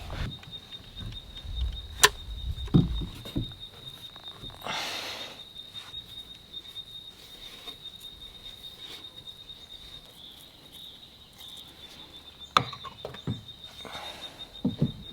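Sharp clicks and knocks of PVC pipe and fittings being handled, the loudest a single crisp click about two seconds in and a cluster near the end. Under them runs a steady, high-pitched, pulsing trill of a calling animal, with a brief hiss about five seconds in.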